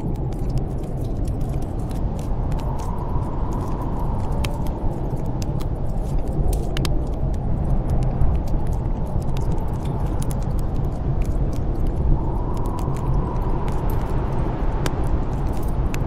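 Steady low rush of snowstorm wind, swelling in gusts twice, with a wood fire crackling: scattered sharp pops and snaps throughout.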